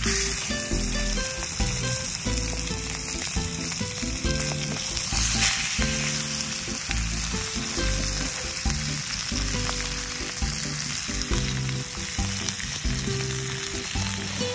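Chicken frying and sizzling in a Turk iron frying pan, a steady hiss, with background music underneath.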